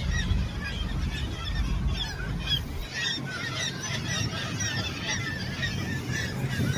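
A crowded seabird colony calling: many short, overlapping calls at once, with a low rumble beneath for the first three seconds.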